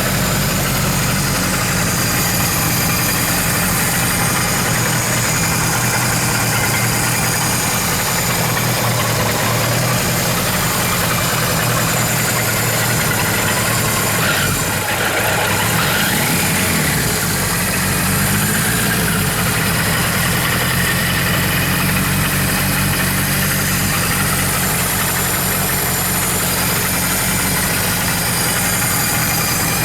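Kawasaki Z1000's inline-four engine idling steadily, with a brief dip and small pitch change about halfway through.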